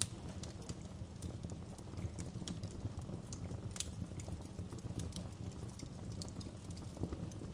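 Wood fire burning in a fireplace: a steady low rumble of the flames with irregular sharp crackles and pops, one louder pop right at the start and another a little before four seconds in.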